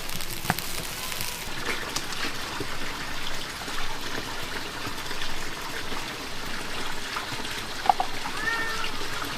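Heavy rain falling in a steady hiss, with a couple of sharp knocks and, near the end, a few short rising-and-falling animal calls much like a cat's meows.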